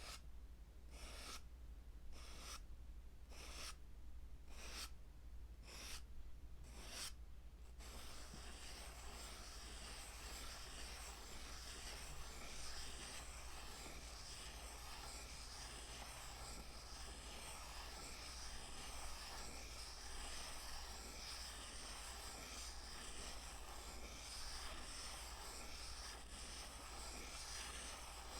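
Close-miked ASMR scratching or rubbing strokes, about one a second for the first eight seconds, then a continuous soft scratching texture.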